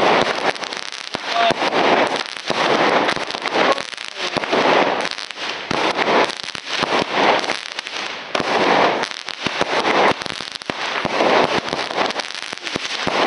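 Consumer fireworks going off in a rapid string, with loud crackling that swells and fades about once a second.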